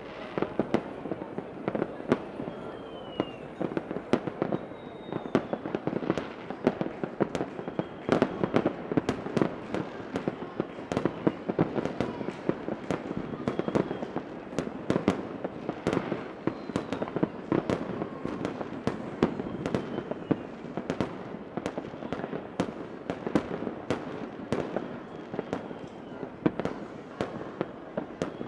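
A fireworks display: a dense, continuous barrage of cracks and pops over a steady rumble, with faint whistles of rising shells now and then.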